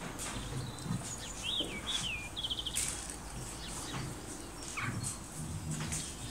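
Birds chirping: a few short rising-and-falling chirps and a quick trill about two seconds in, then one falling chirp near the end.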